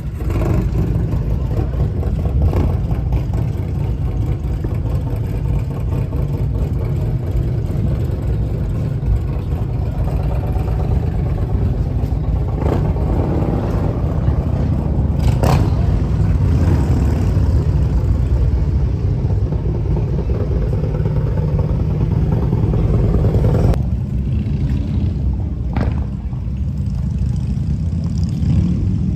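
Suzuki GSX-8R's parallel-twin engine running under way, mixed with heavy wind and road noise. The sound changes abruptly about 24 seconds in, with a few short clicks along the way.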